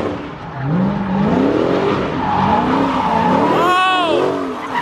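Car engine revving in repeated rising sweeps while its tyres skid and squeal, with a sharper high squeal about four seconds in.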